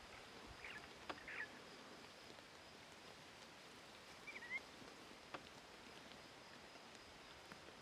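Near-silent bush ambience with a few faint, short bird chirps, twice near the start and once about halfway, a couple of faint clicks, and a thin steady high tone underneath.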